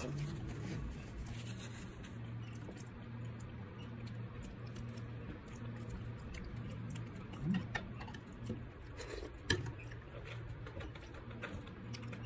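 Close mouth sounds of someone eating goat foot: wet chewing and lip-smacking with scattered small clicks, over a steady low hum, and a couple of short louder smacks near the middle.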